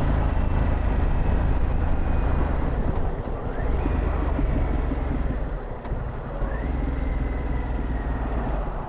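Harley-Davidson Pan America's Revolution Max 1250 V-twin running on the road through a Vance & Hines exhaust. Its pitch rises twice, about three and a half and six and a half seconds in, as the bike pulls.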